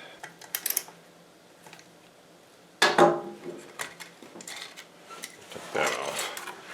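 Metal clicks and clanks as the 1x30 belt sander's belt-tensioning mechanism is loosened by hand to change the belt. One sharp, ringing clank comes about three seconds in and is the loudest sound, with lighter clattering after it.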